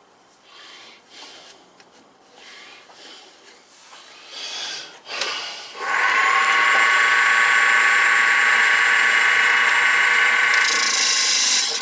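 Turning gouge cutting the bark off a wooden blank spinning on a wood lathe. A few light, uneven scrapes come first, then from about six seconds in a loud, steady cut with a high ringing whine.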